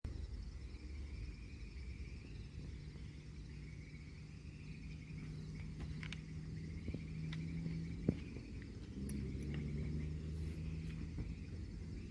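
Faint outdoor ambience: a steady chorus of chirring insects like crickets, over a low continuous hum and rumble, with a few light clicks and a sharp tick about eight seconds in.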